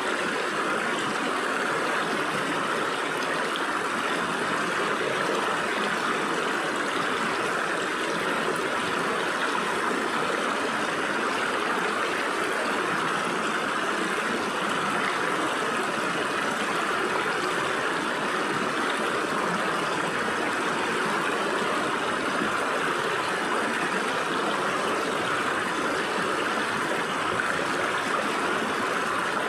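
Stream water flowing and splashing through gaps between rocks, a steady even rush.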